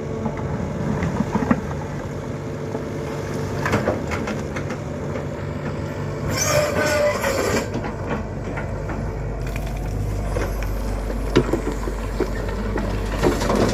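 Excavator diesel engine running steadily while it loads a truck, with scattered knocks and clatter of soil and stone landing in the truck body and a brief hiss about halfway through.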